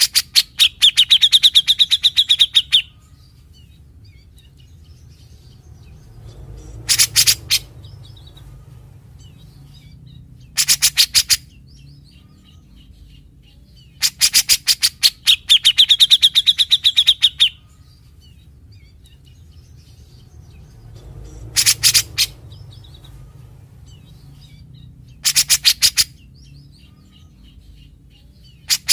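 Grey-cheeked bulbul (cucak jenggot) singing: bursts of rapid, harsh rasping notes every few seconds, the longest phrases running on into a high rolling trill.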